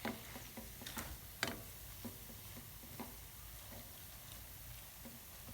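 A few light taps and scrapes of a cooking utensil against a pan while a chicken mixture is stirred: about five short knocks at uneven spacing.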